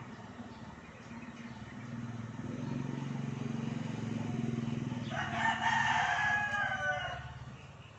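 A rooster crowing once, a single call of about two seconds in the second half, over a low hum that swells and fades.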